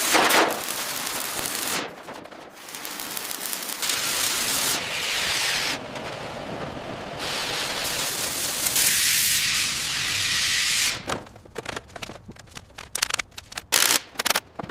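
Restoration work sounds cut together: several stretches of loud hissing, each a second or two long and changing abruptly, then from about eleven seconds in a fast, irregular run of clicks and knocks.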